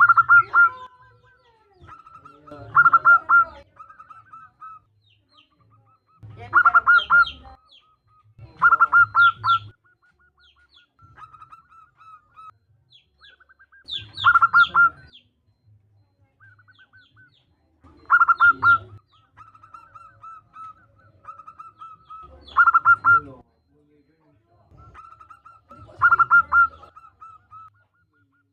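Female zebra dove (perkutut) calling: loud cooing phrases about every three to four seconds, with softer runs of quick repeated coos between them. This is a female's call to a male, used as a lure to bring male zebra doves into song.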